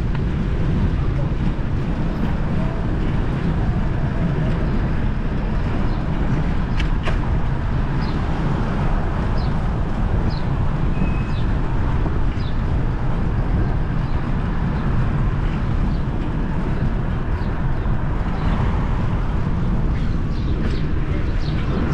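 Steady low rush of wind and street traffic heard from a moving bicycle, with a few short high chirps around the middle.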